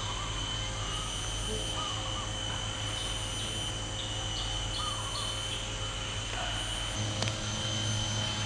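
Tropical nature ambience: a steady high insect drone, with a few short bird chirps, over a low steady rumble.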